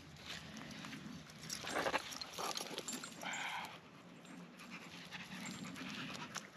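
Belgian Malinois dog panting, a run of irregular breathy huffs.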